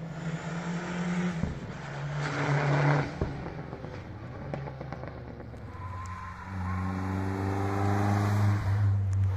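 Historic rally cars' engines at full throttle. One engine peaks and passes close about two and a half to three seconds in, and a second engine's low note grows louder and steadier from about six and a half seconds.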